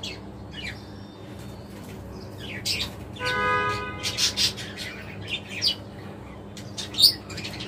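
Pet budgerigars chirping in quick, scattered calls, with one longer held note a little over three seconds in.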